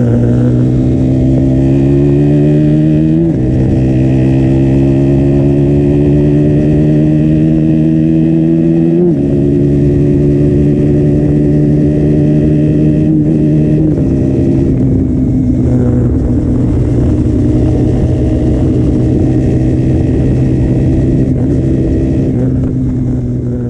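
KTM Duke 125's single-cylinder four-stroke engine on its stock exhaust, pulling through the gears: the engine note climbs steadily and drops at upshifts about 3, 9 and 14 seconds in, then holds a steady note before easing off at the end.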